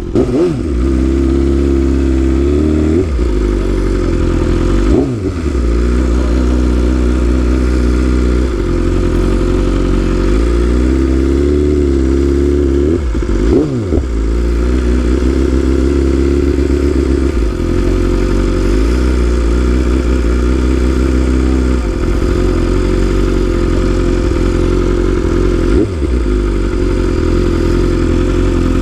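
BMW S1000RR's inline-four engine running at low speed under light, varying throttle, its pitch wavering. Four times the engine speed briefly drops and picks up again.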